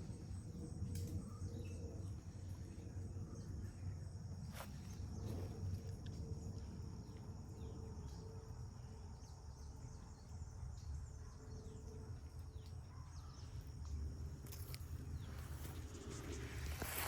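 Insects, crickets among them, chirring steadily in a high, even drone over a low outdoor rumble, with a few sharp clicks.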